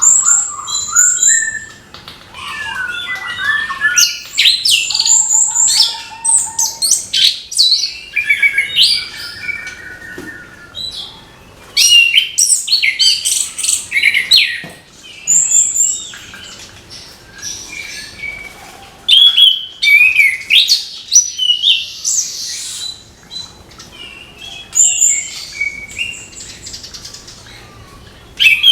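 Orange-headed thrush singing a loud, varied song of quick chirps, whistles and short trills in phrases, with brief pauses between them.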